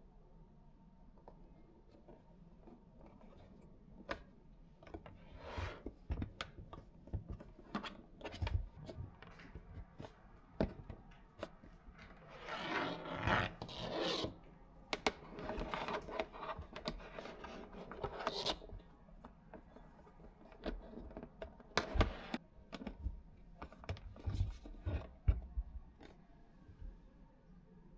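Close hand-handling noises: scattered light clicks and knocks with stretches of rustling and scraping, the busiest part about halfway through.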